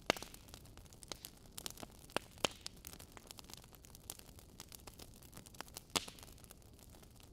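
Wood fire crackling in a fireplace: irregular sharp pops and snaps over a low hiss, with the loudest pops just after the start and about six seconds in.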